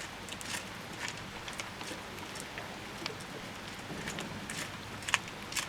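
Heavy rain falling: a steady hiss with scattered individual drops ticking.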